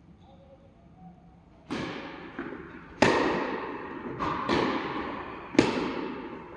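Tennis ball struck back and forth by rackets in a rally: four sharp hits roughly a second to a second and a half apart, with lighter ball bounces between them, each one echoing. The rally starts after a quiet second or so.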